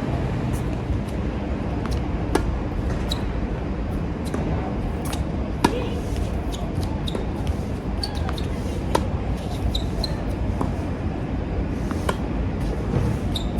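Tennis balls struck by rackets and bouncing on a hard court during a rally, the sharpest hits about every three seconds, under a steady rumble of strong wind on the microphone.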